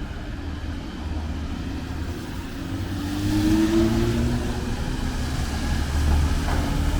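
Street traffic: a steady low rumble, with a vehicle's engine tone rising and getting louder from about three seconds in as it drives past, along with a hiss.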